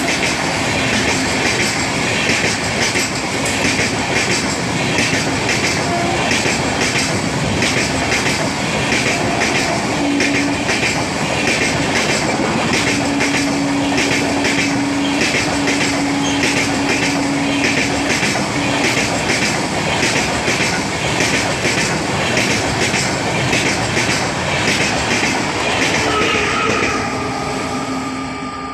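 Electric-hauled passenger train running through the station close by, its coach wheels clattering over the rail joints in a steady, rhythmic clickety-clack. The clatter fades near the end as the last coach passes.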